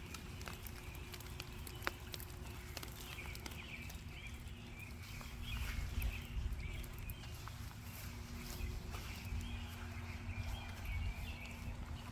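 Birds chirping again and again over a steady low rumble and a faint hum.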